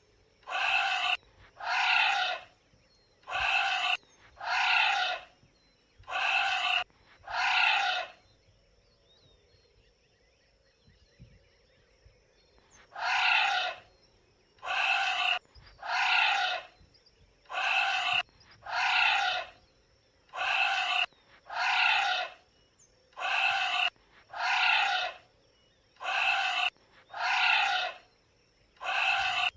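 Anteater calls: a long series of short, high, pitched cries, each dropping slightly in pitch, repeated about once every second or so, with a pause of about five seconds a third of the way through.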